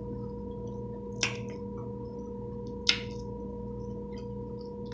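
A steady electrical-sounding hum made of several level tones, with two sharp clicks about a second and a half apart.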